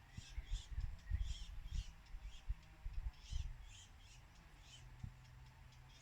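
Pekin chickens calling in a run of short, high chirps, about two or three a second. Low bumps and thuds sound under the calls for the first three seconds or so.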